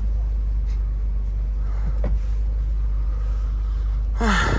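Low, steady rumble of a Citroën Berlingo van's engine running, heard from inside the cab.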